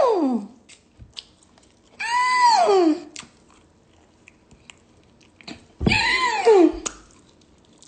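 Three long, high, meow-like cries, each rising briefly then sliding down in pitch, about two and four seconds apart, with faint chewing and smacking of seafood between them.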